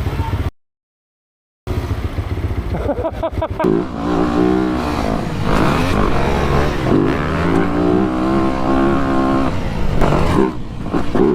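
Motorcycle engine running and being revved over and over, its pitch swinging up and down, after a short cut to silence about half a second in.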